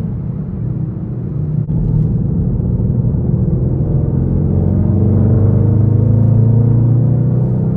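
Straight-piped 5.6-litre V8 of an Infiniti M56 running under way, a deep exhaust note that dips briefly about a second and a half in, then swells to its loudest before easing off near the end.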